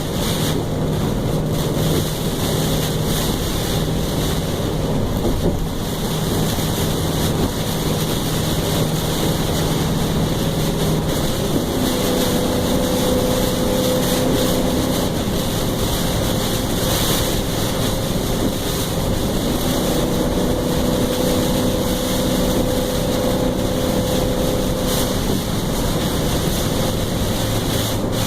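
Strong wind blowing hard across the microphone, with a steady motor hum underneath whose pitch shifts a few times.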